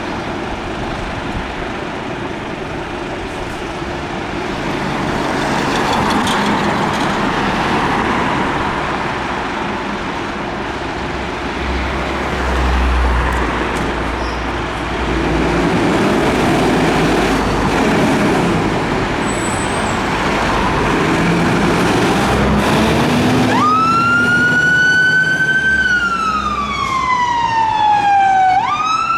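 Road traffic and engine noise, then about 23 seconds in a fire engine's wail siren starts: a tone that rises quickly, sinks slowly over several seconds, and rises again near the end.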